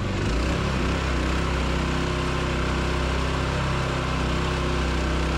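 Homemade mud motor, powered by a pressure washer's small gas engine, running steadily and pushing a boat through very shallow water. Its note shifts just after the start, then holds.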